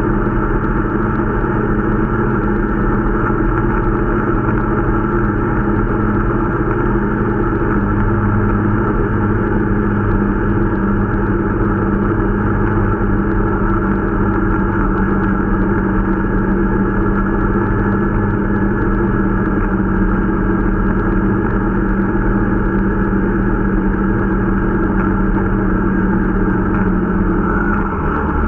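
Irbis Dingo T125 snowmobile's 125 cc engine running at a steady speed under way while the new machine is being run in. The engine pitch dips slightly near the end.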